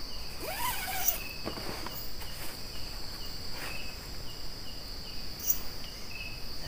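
Night insects, mainly crickets, trilling steadily with short chirps repeating every half second or so. Near the start a brief sliding call rises and falls once over them.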